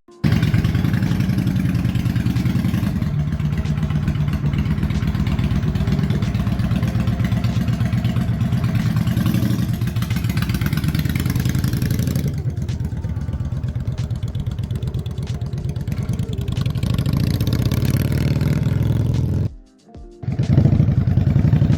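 Yamaha V-Star 650's air-cooled V-twin engine running steadily at idle, warming up on choke after a cold start. The running breaks off for about a second near the end, then resumes.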